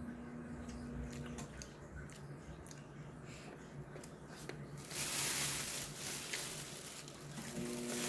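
Someone crunching and chewing a crisp snack close to the microphone: scattered small crunches, then a louder stretch of crunching about five seconds in. A steady low hum from the running oven sits under it at the start and comes back near the end.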